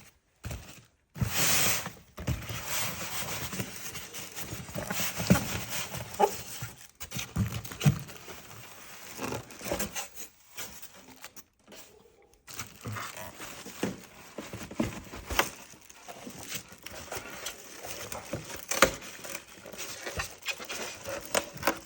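Cardboard box and packaging being handled during an unboxing: rustling and scraping with scattered knocks and taps, broken by a couple of brief drop-outs to silence.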